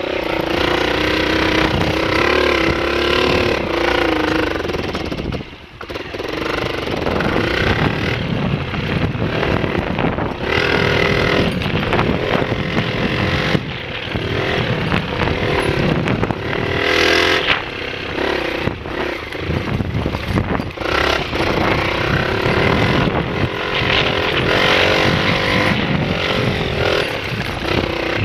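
Honda XLR125 dirt bike's single-cylinder four-stroke engine running and revving, its pitch rising and falling, with a brief drop in level about five seconds in.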